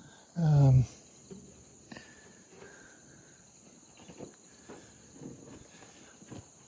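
Crickets chirping steadily in the background. About half a second in, a short, loud pitched sound that falls in pitch, followed by scattered light knocks.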